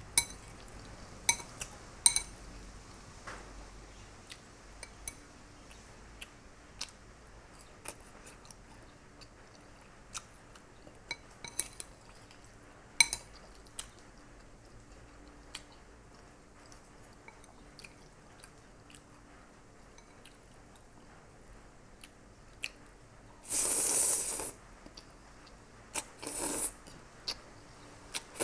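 Eating sounds: a fork clicking and clinking against the dish, with chewing in between. Near the end comes a louder rushing noise about a second long, then two shorter ones.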